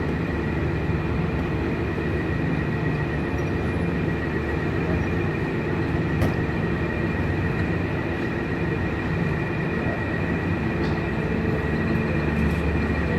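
Steady drone of a docked cargo ferry's machinery running, a low hum with a thin steady whine above it.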